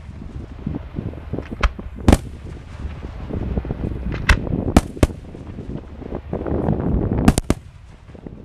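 Fireworks display: aerial shells bursting with about eight sharp bangs at uneven intervals, including a quick run of three near the end, over a continuous low rumble.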